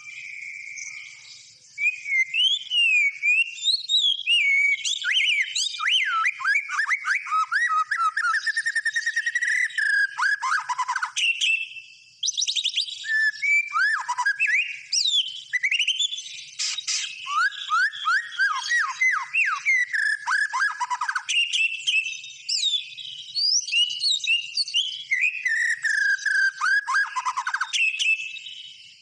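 White-rumped shama in full song: a long, varied run of rich whistles, rapid trills and quick downward-sweeping notes, with a short break about twelve seconds in.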